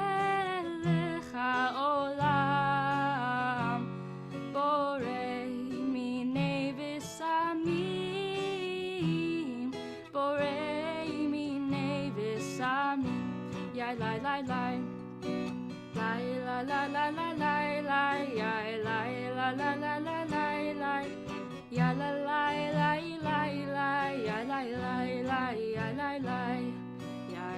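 A Havdalah song sung by a solo voice over strummed acoustic guitar.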